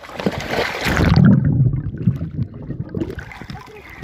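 Sea water washing and splashing, swelling to its loudest about a second in and then settling to a lower wash.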